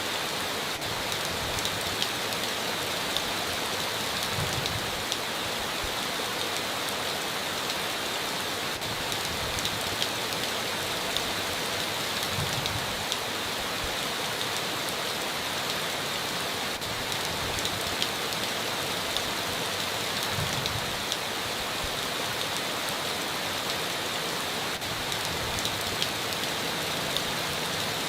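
Steady heavy rain drumming on a tin roof, with single drops ticking sharply throughout. A soft low thud comes about every eight seconds.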